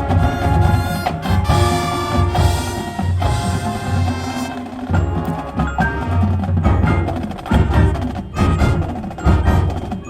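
Marching band playing: sustained wind chords over drums and mallet percussion such as marimba and bells.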